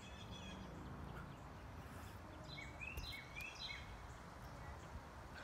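Quiet outdoor backyard ambience: a steady low background hum, with a songbird singing a short phrase of quick repeated notes about halfway through.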